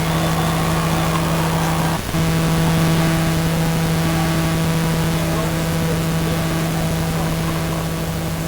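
A steady, loud buzz: one low pitch with overtones, cutting out briefly about two seconds in.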